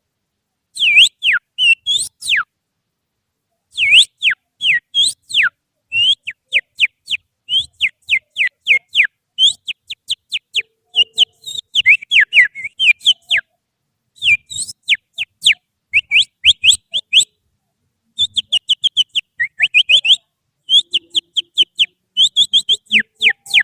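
A person whistling through a finger, imitating the loud, sharp 'shots' of an oriental magpie-robin as a lure to provoke a caged bird. It comes as phrases of quick downward-sliding whistle notes with short pauses between them, some in fast runs.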